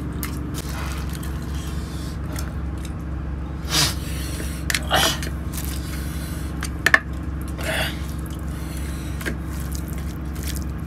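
Steady low rumble and hum inside a passenger train cabin, with a few brief knocks and rustles of hands and plates.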